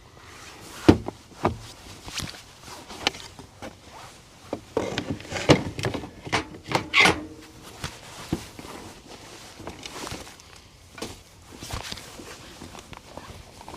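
Camp gear and food being handled and set down: irregular knocks, clatter and rustling. The sharpest knocks come about a second in and again in a busier stretch around five to seven seconds.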